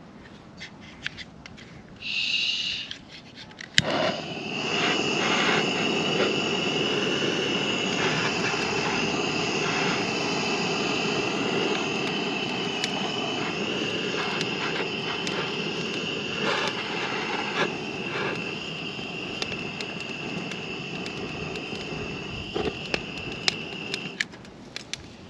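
A steady rushing hiss with a high whistling tone, starting just after a sharp click about four seconds in and cutting off suddenly near the end, with scattered small clicks throughout.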